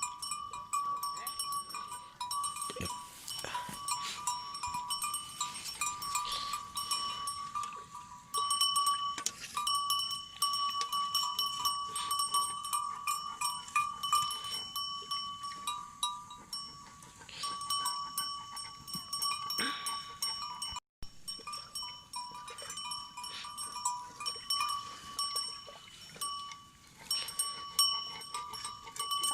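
A flock of sheep and goats, with a steady high ringing tone and many short clicks and knocks.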